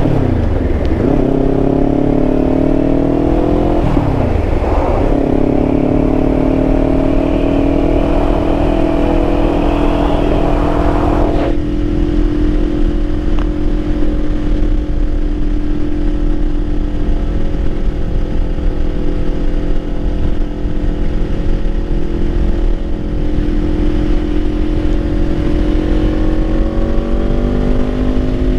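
Kawasaki Ninja 500's parallel-twin engine under way: its revs dip and climb twice in the first five seconds as it shifts up, then it holds a steady cruise. About eleven seconds in the throttle eases and the note turns smoother, rising slightly again near the end.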